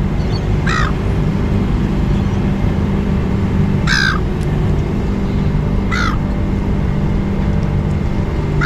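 Seagulls (silver gulls) giving short harsh calls, four of them spaced a couple of seconds apart, over a steady low background rumble.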